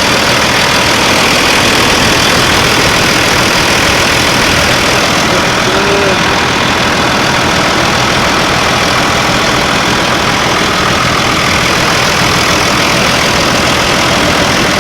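Replacement 24-valve Cummins inline-six turbo diesel idling steadily, freshly started after the engine swap.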